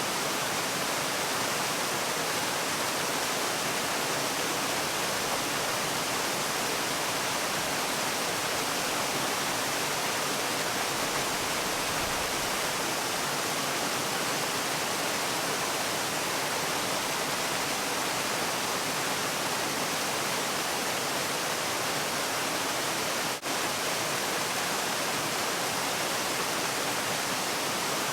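Steady rush of a waterfall, an even hiss of falling water with no breaks except one momentary dip in level near the end.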